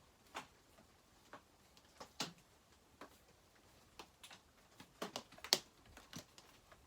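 Irregular light clicks and taps of metal and plastic chainsaw parts knocking together as the handle and anti-vibration mounts are worked into line, with a quick run of sharper clicks about five seconds in.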